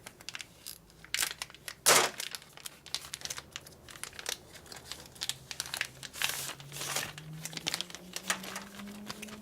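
Packaging crinkling and tearing as new motorcycle brake lines are unwrapped and handled, an irregular run of crackles with a sharper, louder one about two seconds in.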